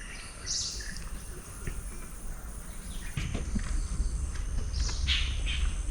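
A few short, high bird chirps over faint forest background sound, with a low rumble coming in about three seconds in.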